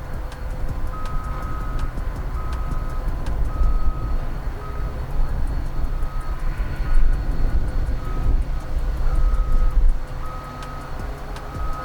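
Diesel locomotive engine running with a steady low rumble, overlaid by a high electronic beep that sounds over and over in uneven on-off pulses.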